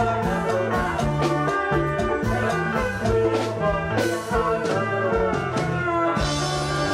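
Music from a likay troupe's band played through the stage sound system: sustained melodic notes over a steady drum beat, with a cymbal wash coming in near the end.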